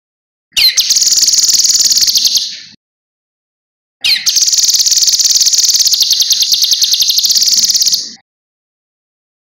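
Cucak kinoi singing in two bouts, about 2 s and 4 s long, with silent gaps between them. Each bout opens with a quick falling note and runs on as a fast, even, high-pitched trill.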